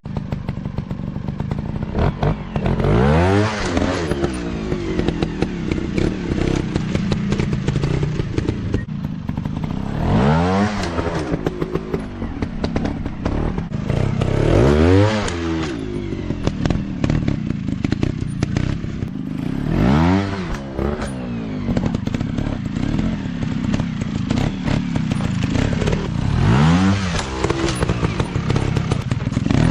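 Dirt bike engine running hard off-road, revving up and back down in about five bursts, with rough steady running between them.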